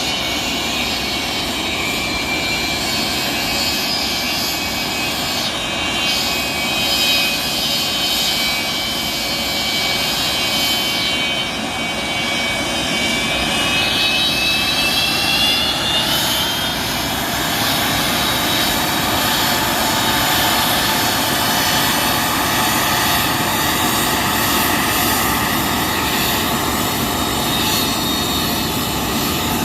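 Antonov An-124's Progress D-18T turbofan engines running, a loud steady rush with a high multi-tone whine. The whine rises in pitch about halfway through.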